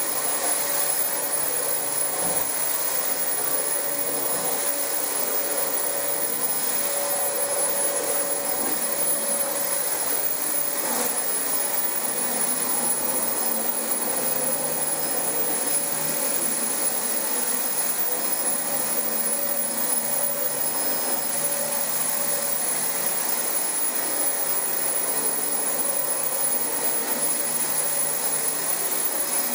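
Dyson DC25 upright vacuum cleaner running steadily on carpet, its motor noise carrying a constant high whine.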